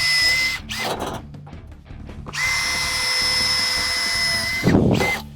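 Electric drill boring holes through sheet-metal rocker panels for spot welds: a short run at the start, then a longer steady run of about two and a half seconds from about two seconds in, ending in a brief rough burst.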